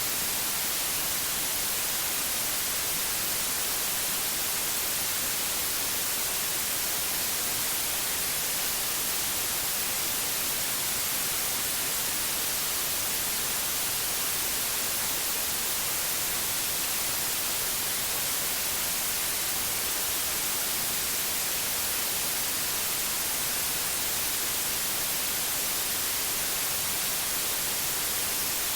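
Pure white noise: a steady, even hiss, loudest in the high frequencies, with no change or break.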